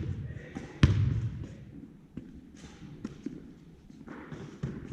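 A volleyball smacked hard once, about a second in, with low ringing trailing after it, followed by a few fainter knocks.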